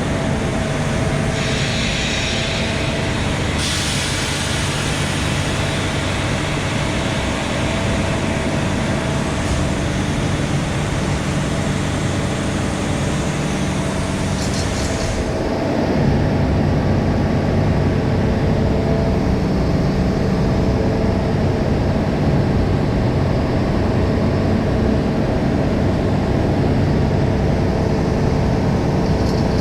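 Scania V8 truck engine running steadily under load while the trailer is tipped, very loud. A strong hiss comes in about four seconds in and stops about fifteen seconds in, and the din steps up a little louder soon after.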